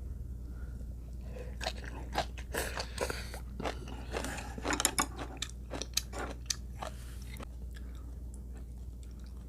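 A person biting and chewing crunchy food, a quick run of crisp crunches that starts about a second in and stops most of the way through, over a steady low hum.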